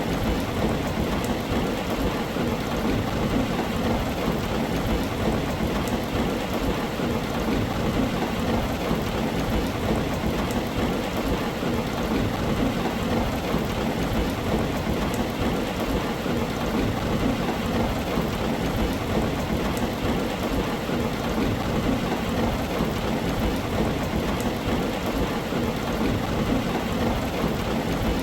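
Heavy rain drumming steadily on a tin roof, dense and unbroken, over a continuous low rumble.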